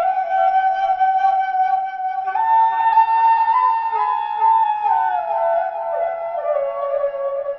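Background music: a flute playing a melody of held notes that step up and down, with a slide down in pitch near the end.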